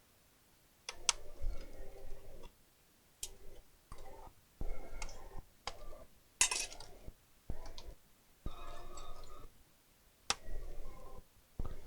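Light clicks, taps and small knocks of tools against plastic and metal laptop parts during disassembly, coming in short irregular bursts with pauses between them.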